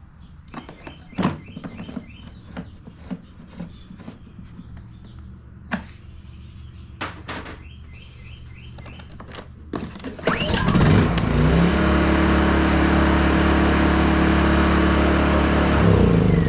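Knocks and clicks of the plastic cover going back onto a Honda EU2000i inverter generator, with birds chirping. About ten seconds in, its small single-cylinder four-stroke engine starts suddenly, picks up speed and then runs loud and steady.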